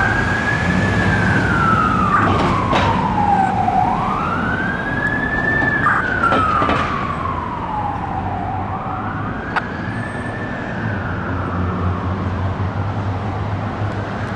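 Fire engine siren wailing, its tone rising quickly and falling slowly about every four to five seconds, three cycles in all. Underneath runs a steady low engine hum.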